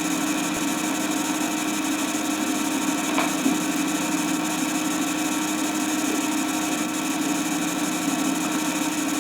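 A steady machine-like hum with a constant hiss over it, level and unchanging, with one faint click about three seconds in.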